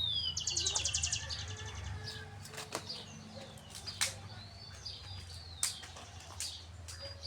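A songbird singing: a high whistled note that slides downward, then a fast buzzy trill, with the phrase starting again near the end. Several sharp clicks are scattered through it over a low steady hum.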